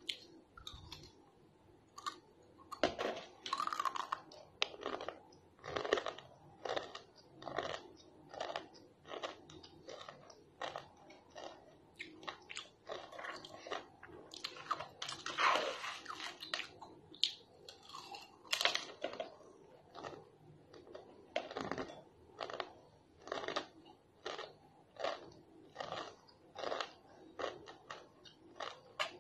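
A child chewing Mamee crunchy dried-noodle snack close to the microphone: a steady run of crisp crunches, a little under two a second.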